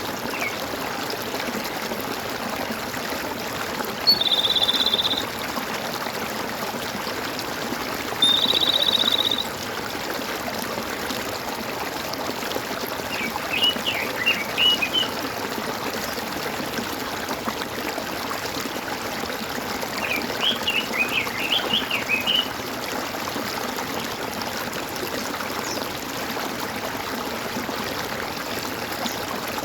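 Water gurgling and trickling steadily, as in a stream. A high buzzing trill sounds twice, about four and eight seconds in, and birds twitter in two short bursts later on.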